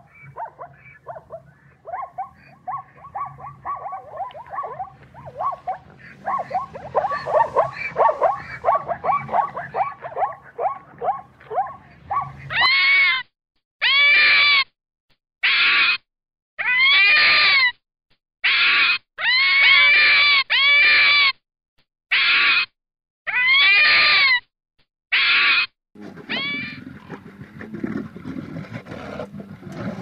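A sequence of animal calls, presented as a sand gazelle's and then a Rüppell's sand fox's. First comes a quickening run of short pitched calls, several a second. A little under halfway through it changes to about ten loud, separate calls that rise and fall in pitch, with silent gaps between them. Near the end a low, rough sound begins.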